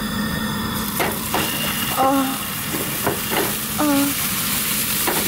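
Hot dogs sizzling in an oiled frying pan on a gas camp stove, with a few light knocks as more are set into the pan.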